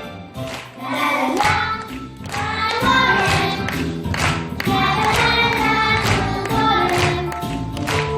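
A group of young children singing together as a choir, with instrumental accompaniment.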